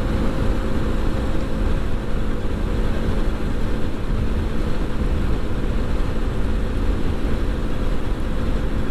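A motorcycle riding at a steady speed: its engine drones at one unchanging pitch over a loud, rumbling noise.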